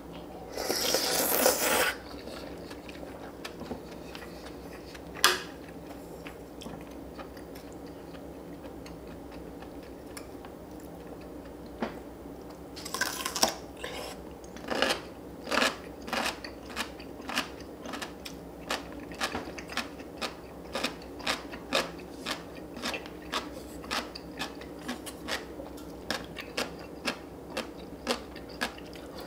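A person eating seokbakji, chunky Korean radish kimchi. There is a loud noisy burst at the start and a single sharp click about five seconds in. From about halfway, crisp radish chunks are crunched and chewed at a steady rhythm of about two chews a second.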